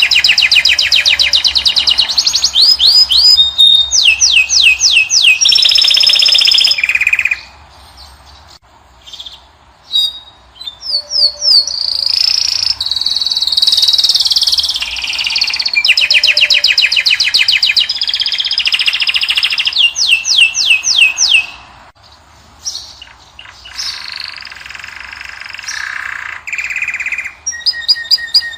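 European goldfinch and canary singing: long, fast trills of rapidly repeated notes mixed with quick upward-sweeping notes and twittering. The song stops briefly about a quarter of the way in and again about three quarters in.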